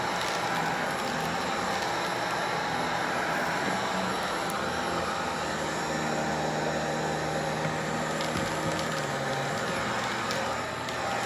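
Bissell upright vacuum cleaner running steadily on a rug, picking up mess-test debris with a few short clicks, and a lower hum joining in for a few seconds mid-way.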